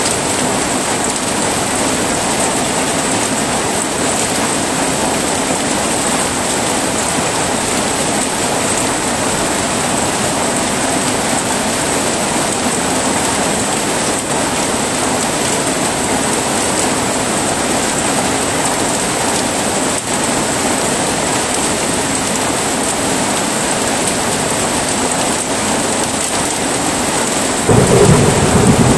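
Heavy rain falling steadily, with a rumble of thunder breaking in near the end.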